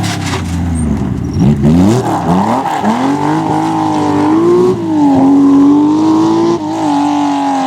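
Rally car engine under hard acceleration: the revs climb steeply several times in quick succession through gear changes in the first three seconds, then hold high with brief dips about five and six and a half seconds in.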